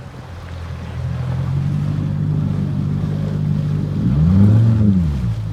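Motorboat engine running and picking up about a second in, then revving up and back down near the end.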